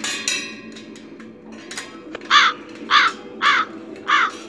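A bird cawing four times, each short call about half a second apart, in the second half. Near the start, a metallic clink with a brief ring as the chrome tubing of a metal drawer rack is handled.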